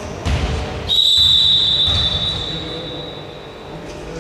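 Referee's whistle blown in one long, steady blast of about two seconds that fades out, over the low noise of a basketball court.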